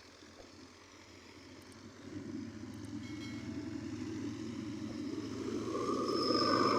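A motor vehicle engine running, growing steadily louder from about two seconds in.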